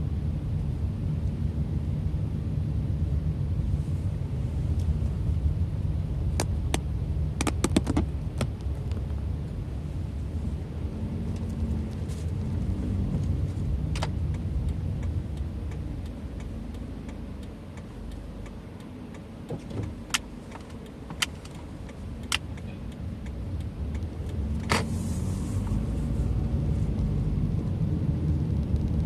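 A moving car heard from inside the cabin: a steady low rumble of road and engine noise with a few scattered sharp clicks. The rumble quietens for several seconds midway as the car slows, then builds again.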